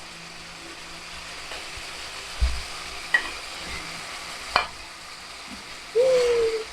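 Chicken frying in oil in a pan, a steady sizzle, while a utensil stirs and knocks against the pan a few times as potatoes go in. A short, loud tone sounds near the end.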